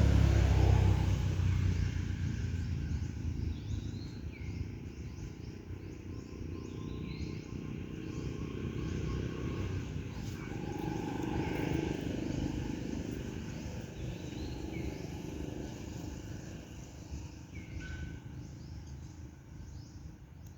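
Outdoor ambience: a steady low rumble, loudest in the first couple of seconds, with short high chirping animal calls scattered throughout.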